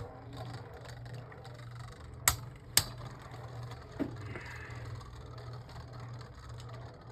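Two Beyblade Burst tops, Zeutron riding on top of Eclipse Genesis, spinning together in a plastic stadium with a steady low hum. Two sharp clicks about half a second apart come a little past two seconds in, and a softer knock follows around four seconds.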